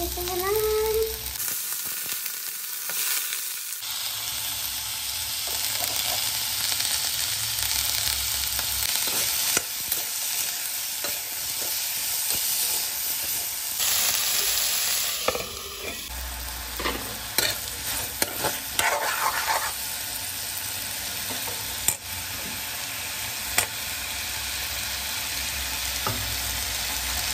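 Vegetables sizzling in hot oil in a wok: onion, then green beans and potatoes. The steady sizzle is broken by frequent short scrapes and clicks of a metal spatula against the pan as they are stirred.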